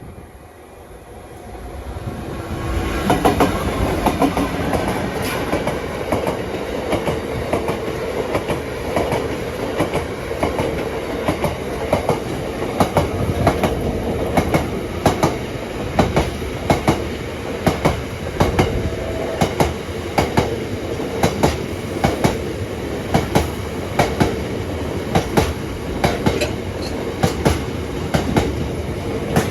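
Freight train running past, growing loud over the first few seconds, then a long rake of wagons rumbling by with a regular clatter of wheels over the rail joints.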